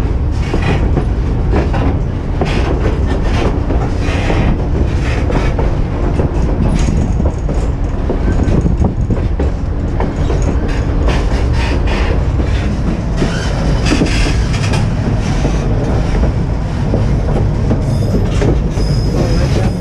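White Pass & Yukon Route passenger car rolling along the narrow-gauge track, heard from its open platform: a steady low rumble with the wheels clacking irregularly over the rail joints.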